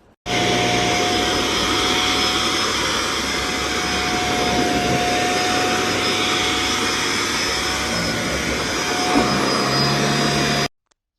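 Xiaomi Mijia dust-mite mattress vacuum cleaner running: a steady, loud whir with a held tone. It starts abruptly just after the beginning and cuts off abruptly near the end.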